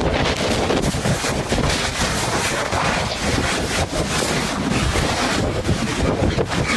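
Strong wind buffeting the microphone: a loud, gusty rush.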